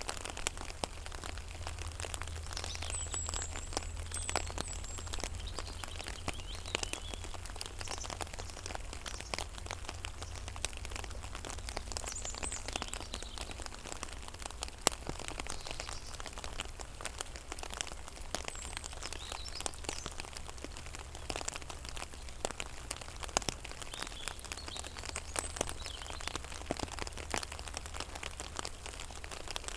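Rain falling on a pond: scattered raindrops plinking and dripping on the water in an irregular patter, over a low steady hum. Faint high bird chirps come in now and then.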